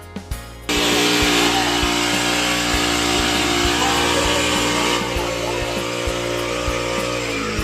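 Small petrol engine of a portable agricultural spray pump running steadily, cutting in suddenly under a second in, with a hiss over its steady hum. Its pitch sags slightly near the end.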